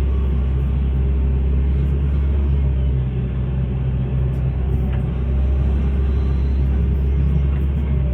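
Hitachi hydraulic excavator's diesel engine running with a steady low rumble.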